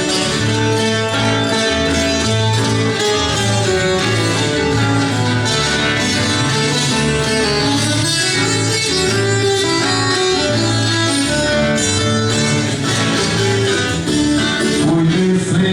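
Instrumental break in a sertanejo caipira song played live on acoustic guitars: a strummed rhythm under a plucked melody line, with a steady pattern of low bass notes.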